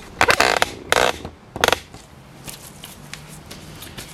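Workshop handling noise: three short clattering bursts within the first two seconds, then only faint ticks.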